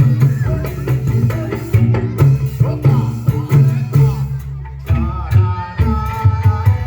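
Dangdut koplo band music: a hand-drum rhythm over a bass line with melodic instruments, changing to longer held notes about five seconds in.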